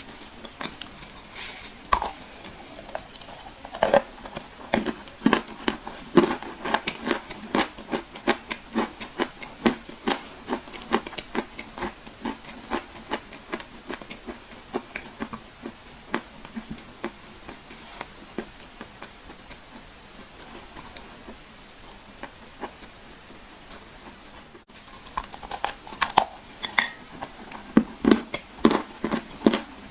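Dry clay being crushed and crumbled, a rapid run of crisp crunches and crackles. The crunching thins out past the middle, breaks off briefly near the end, then picks up again.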